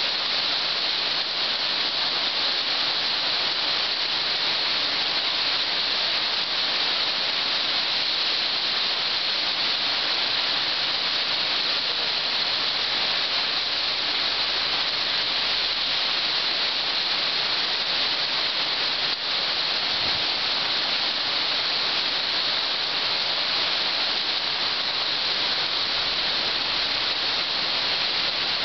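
Rain falling in a steady downpour: an even, unbroken hiss.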